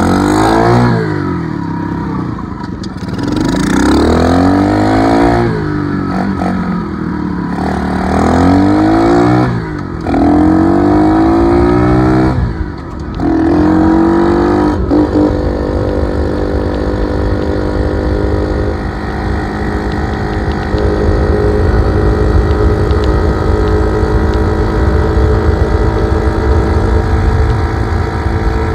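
Dirt bike engine revving, its pitch climbing and dropping back about every two to three seconds, then running at a steadier held speed through the second half.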